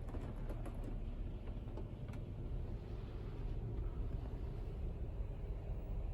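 Steady low rumble heard from inside a car standing in an automatic car wash bay, with a few faint ticks.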